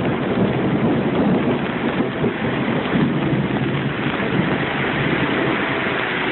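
Heavy rain pouring steadily in a thunderstorm.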